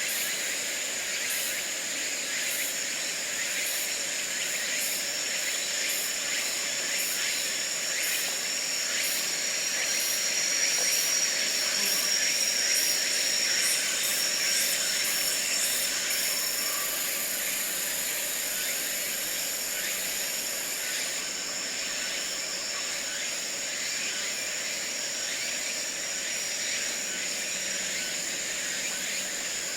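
Late-summer forest ambience carried by a chorus of insects: steady high trills, a rapidly pulsing call through the first half, and a very high buzz that joins midway for about five seconds.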